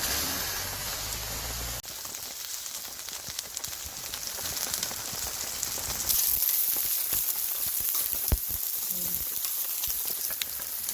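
Food sizzling and crackling on a hot pan, a steady hiss that grows louder about six seconds in.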